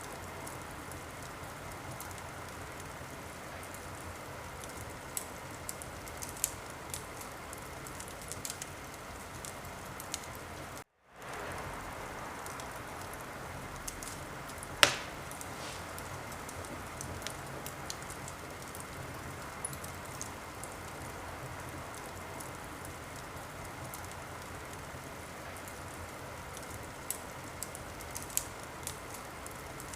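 Wood fire crackling: a steady hiss with scattered small pops and one loud sharp pop about halfway through. The sound cuts out completely for a moment about a third of the way in and fades back up, like a seam in a looped recording.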